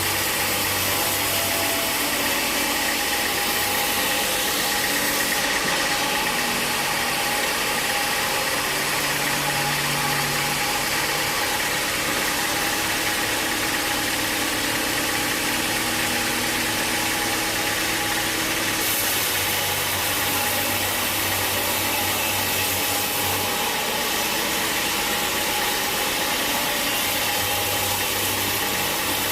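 Sawmill machinery running steadily: an engine with a constant mechanical noise and a steady whine, with no pauses.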